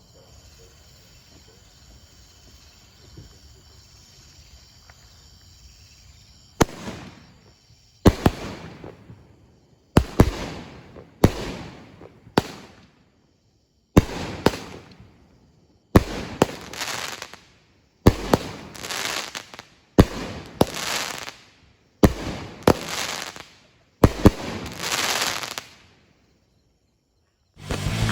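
Winda Fireworks Cherry Bomber 200-gram cake firing. After a quiet first six seconds, about ten shots go off roughly every two seconds. Each is a sharp loud bang followed by about a second of crackling that dies away.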